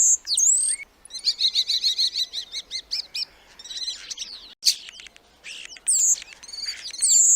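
Common starling singing: a varied jumble of whistles and high sliding notes, sharp clicks, and about a second in a fast rattling run of repeated notes lasting a couple of seconds.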